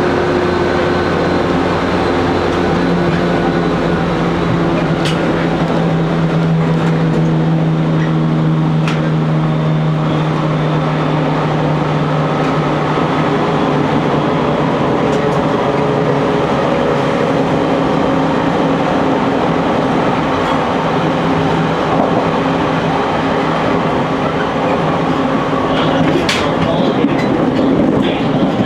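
JR Kyushu 813 series electric train running, heard from the driver's cab: a steady motor hum over wheel-and-rail noise, with a few sharp clicks. About three seconds in, a low hum gives way to a higher steady tone that holds for about ten seconds.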